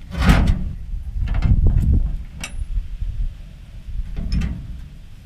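Metal motorcycle hitch rack being turned over by hand on the truck's hitch: a series of clunks and scrapes, loudest in the first two seconds, with another bump about four and a half seconds in.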